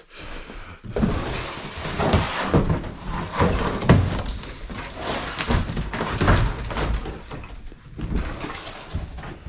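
Panels and demolition debris being pulled and handled: irregular scraping, rustling and knocks, with a few heavier thuds.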